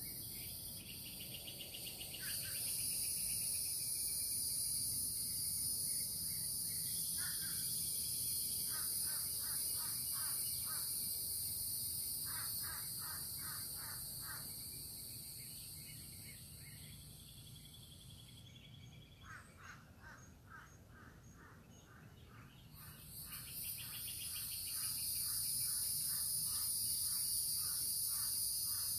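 Crows cawing in runs of several quick caws, over a steady, high-pitched chorus of night insects that fades away for a few seconds past the middle and then comes back.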